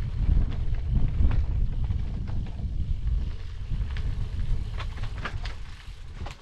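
Wind buffeting the microphone of a moving bicycle rider, a fluctuating low rumble that eases off in the second half. A few short sharp clicks come in the last couple of seconds.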